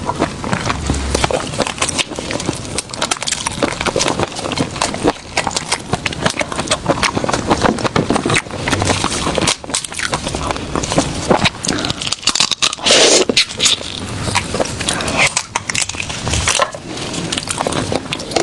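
Close-miked eating: seafood being chewed, with dense crunching and crackling.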